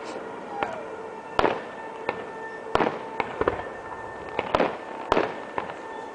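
Aerial fireworks bursting: a string of sharp bangs, about eight in six seconds, each trailing off in a short echoing rumble, with a falling whistle about half a second in.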